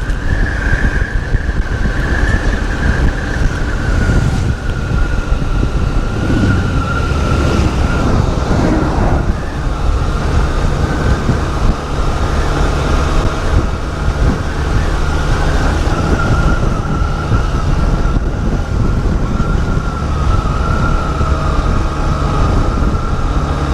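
Wind buffeting the microphone on a small Honda motorcycle at riding speed, with a steady high whine from the bike running beneath it.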